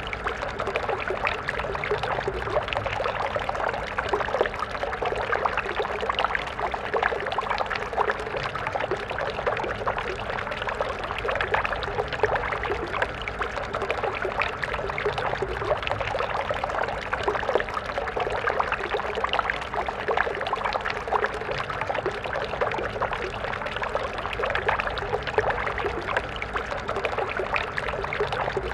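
A stream flowing, water babbling and splashing steadily.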